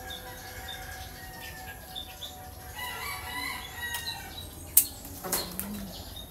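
A bird calling in the background: one long drawn-out call about three seconds in. A sharp click just before five seconds is the loudest sound, followed by a short rustle.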